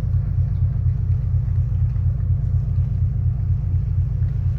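An engine running steadily, a low, even drone with a regular pulse and no change in speed.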